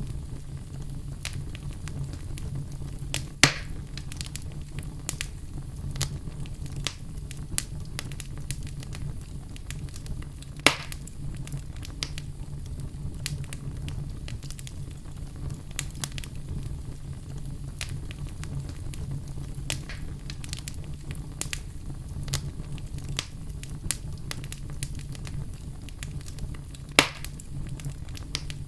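Wood fire crackling in a fireplace: a steady low rumble of flames with frequent irregular pops and three louder snaps.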